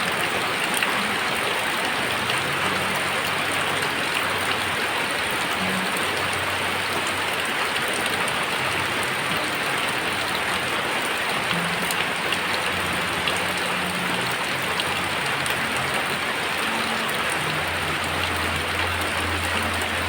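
Very heavy rain falling steadily: a dense, even hiss of rain pouring onto surfaces. A low hum comes in underneath near the end.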